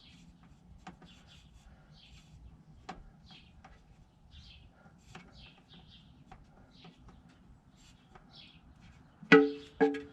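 Faint birds chirping on and off. About nine seconds in come two sharp, ringing metal clanks half a second apart, the loudest sounds here.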